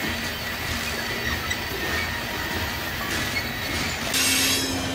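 Loaded covered hopper cars of a grain train rolling slowly past, their steel wheels running on the rails in a steady rumble. It gets louder about four seconds in.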